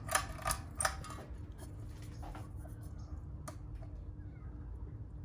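Harbor Breeze Calera ceiling fan's pull-chain switch clicking a few times, then a steady low motor hum with a faint tone as the fan starts slowly on low speed. The fan has a bad capacitor.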